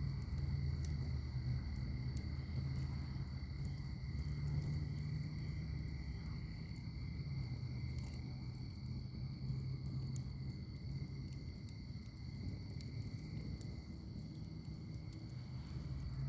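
Wood fire burning in a fire pit, with a low steady rumble and scattered small crackles. A steady insect trill, like crickets, runs behind it.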